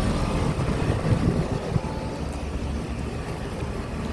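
Outdoor air-conditioner and heat-pump condensing units running, a steady low hum of compressors and condenser fans.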